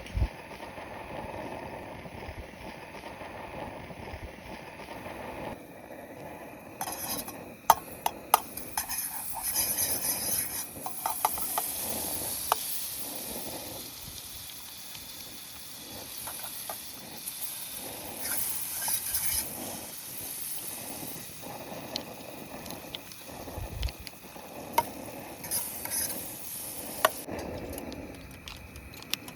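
Food sizzling in a pan while a utensil stirs it, with scattered clicks and scrapes of the utensil against the pan; the sizzle swells about a quarter of the way in.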